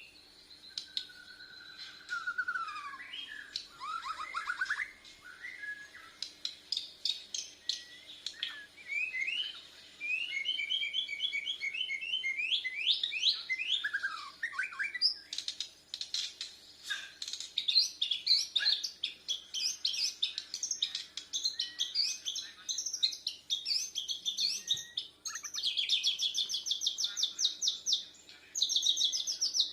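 Bornean shama (murai batu) singing a long, varied song of whistled glides, chattering phrases and rapid trills, with fast repeated notes near the end.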